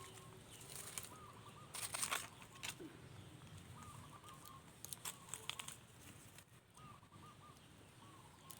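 Rustling or crinkling noise comes in bursts about two seconds in and again around five seconds, over small high chirps repeated in quick groups of three or four.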